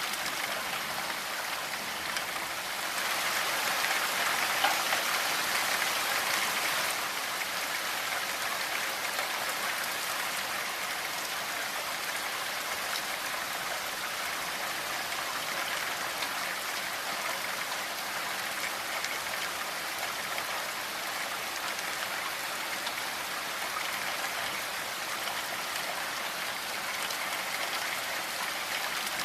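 Steady rain falling, a dense even hiss of drops with no separate patter. It grows a little heavier for a few seconds shortly after the start, then settles back.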